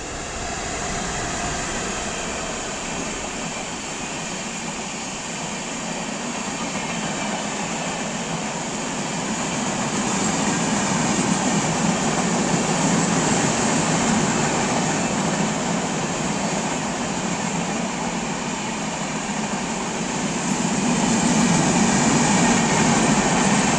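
Indian Railways passenger train of red coaches passing close by at speed: a continuous rush and rumble of wheels on rail. It grows louder about halfway through and again near the end.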